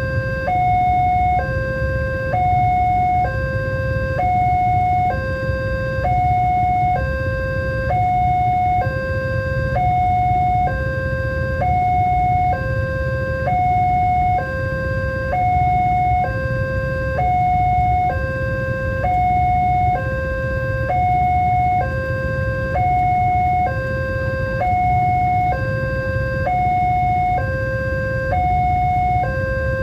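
Railway level-crossing warning alarm sounding its electronic two-tone signal, a lower and a higher tone alternating evenly about every 0.8 seconds, the signal that a train is approaching and the barrier is closing. A steady low rumble runs underneath.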